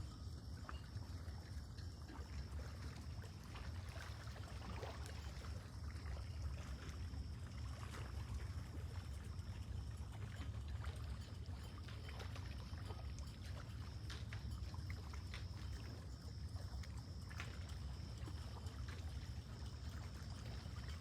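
Lake water lapping and trickling gently at the shore, with faint small splashes over a steady low rumble.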